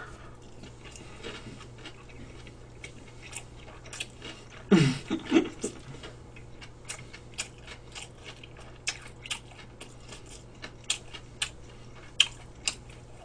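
A mouthful of gimbap chewed close to the microphone, with many small crisp crunches. About five seconds in comes a short hummed 'mm' that falls in pitch.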